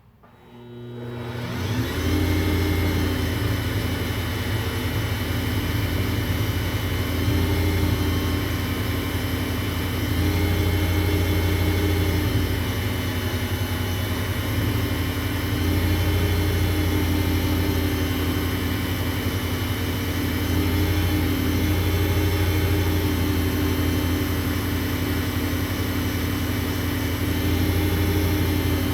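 WEN wood lathe's motor spinning up over about two seconds and then running steadily with a low hum and slight swells in level.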